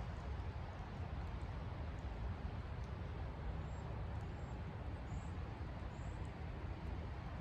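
Steady outdoor noise of rain and creek water, heaviest in the low end, with a few short, faint high chirps about halfway through.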